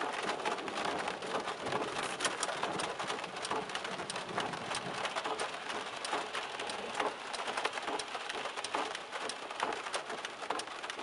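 Rain pelting a car's windshield, heard from inside the car: a dense, steady patter of drop impacts.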